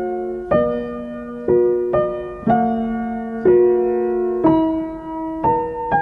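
Background piano music at a slow, even pace, with notes or chords struck about once a second and left to ring.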